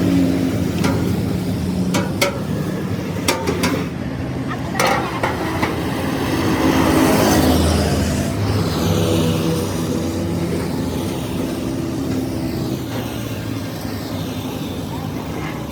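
An engine running, its pitch shifting up and down. Several sharp knocks come in the first five seconds, and a broad rushing swell comes about seven seconds in.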